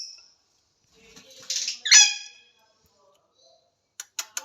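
Lovebird giving one harsh, high-pitched squawk about two seconds in. A quick run of sharp clicks follows near the end.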